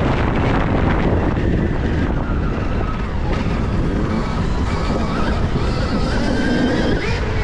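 Wind buffeting the microphone while riding a Stark Varg electric dirt bike, with the electric motor's high whine rising and falling in pitch with the throttle in the second half.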